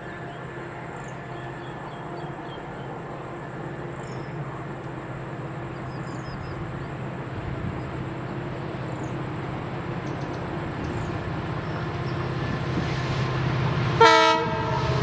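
Express train approaching, its low steady running sound growing louder throughout. Near the end comes one short blast of the locomotive's horn.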